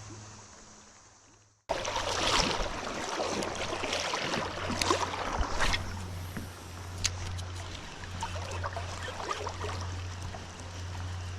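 Water sloshing and splashing around a kayak, with a few sharper splashes, over a steady low hum; it cuts in suddenly after a brief fade to quiet near the start.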